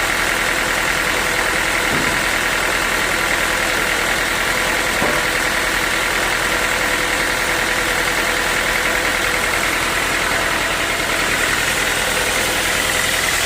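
Sawmill saw running steadily, a constant mechanical noise with a high whine through it.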